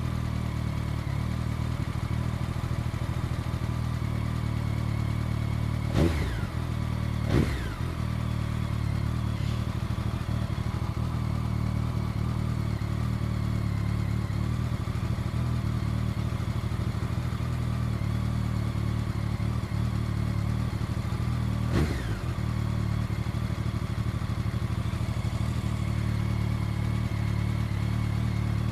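BMW K1200S four-cylinder motorcycle engine with an Akrapovic exhaust, running steadily at cruise. Three sharp clicks cut through it: two close together about six seconds in, and one more about twenty-two seconds in.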